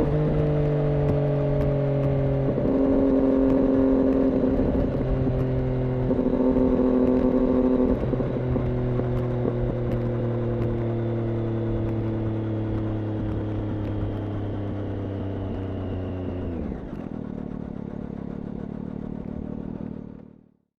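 Triumph Daytona 675's three-cylinder engine running through an IXIL aftermarket exhaust. Its pitch shifts in a few steps and then sinks slowly, drops to a lower, quieter idle about 17 seconds in, and fades out near the end.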